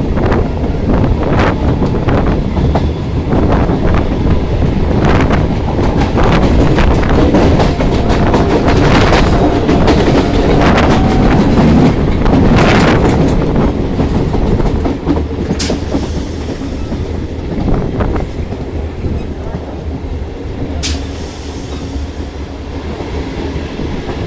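Local passenger train running along the track, wheels clattering over the rail joints with a steady rumble. It is loud, then eases off a little about fifteen seconds in.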